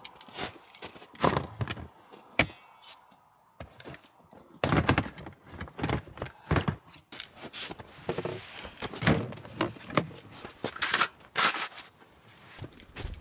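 Irregular knocks, thuds and clatter of hard objects being handled, with a short stretch of rustling about eight seconds in.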